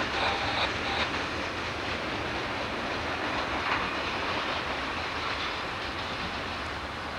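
Freight train's cars rolling away over the rails: a steady wheel rumble with a few faint clicks, slowly fading.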